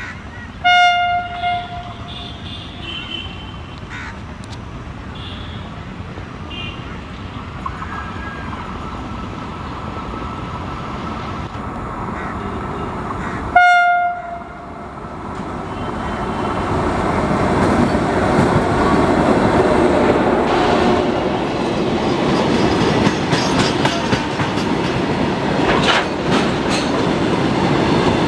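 Indian Railways electric locomotive sounding its horn: a short blast about a second in, followed quickly by a second one, and another short blast about halfway through. After that the train's rumble and wheel clatter grow steadily louder as it approaches.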